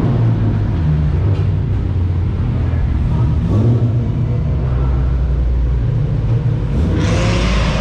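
Car engine running with a steady low rumble, with a louder rushing noise coming in near the end.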